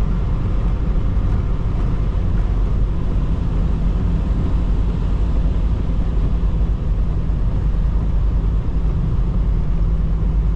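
Steady drone of a semi-truck's diesel engine and road noise heard from inside the cab while driving, a low hum with no breaks.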